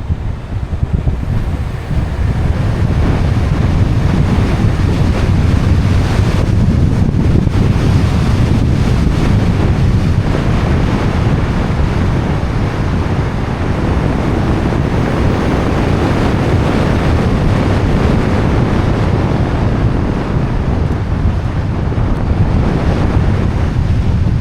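Wind buffeting the microphone of a roof-mounted action camera on a moving BMW E91 320d, over the low rumble of the car on the road. The noise grows louder about two seconds in and then stays steady.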